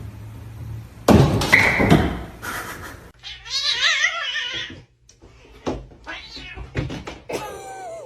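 A cat meowing and caterwauling: a loud rough burst about a second in, a long wavering yowl around the middle, and a shorter falling meow near the end, with a few light knocks.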